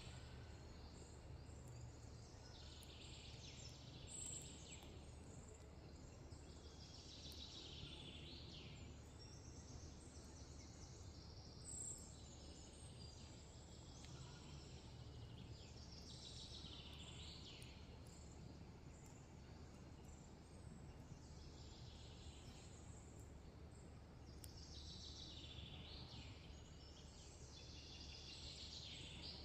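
Faint rainforest ambience: a high, hazy animal call lasting a second or two, repeating about every four to five seconds over a steady low rumble.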